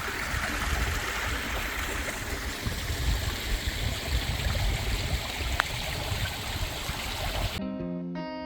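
Small stream running beside a field, a steady rush of water with an uneven low rumble underneath. Near the end it cuts off abruptly to acoustic guitar music.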